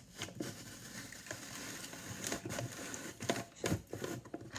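Paper being shredded: a continuous papery rasp broken by irregular sharp crackles.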